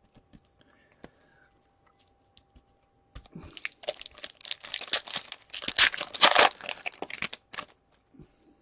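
A foil hockey card pack wrapper being torn open and crinkled, a dense crackling run of a few seconds that starts after a few faint clicks and stops shortly before the end.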